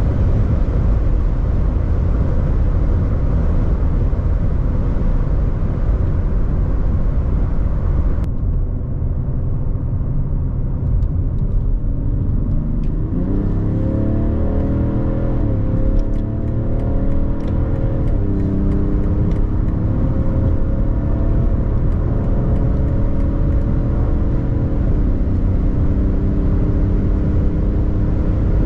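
Alpina XD3's quad-turbo 3.0-litre straight-six diesel at high speed, heavy wind and tyre noise over a low engine rumble. After a cut about eight seconds in, the engine note climbs under hard acceleration, stepping at several upshifts, then runs nearly steady.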